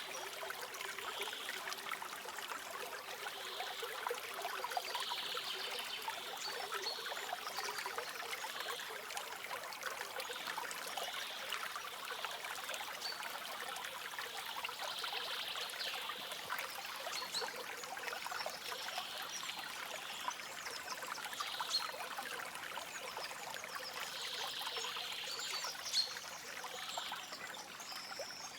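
A forest stream flowing and trickling steadily over stones, with a few faint, high bird chirps now and then.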